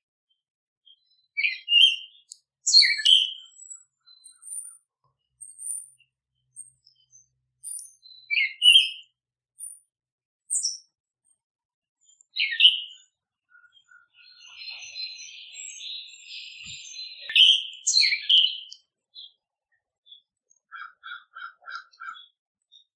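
Songbirds calling in the open: short downward-sweeping chirps several times, a buzzy trill held for a few seconds past the middle, and a quick run of about five short notes near the end.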